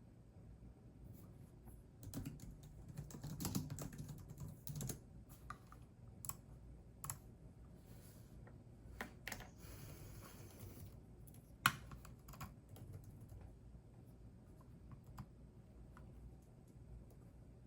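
Typing on a computer keyboard: a quick flurry of keystrokes a couple of seconds in, then slower, scattered key presses with one sharper click partway through.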